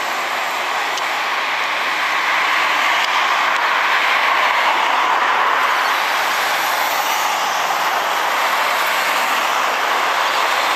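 Suburban train running, a steady rushing noise of wheels on rail that swells slightly a few seconds in.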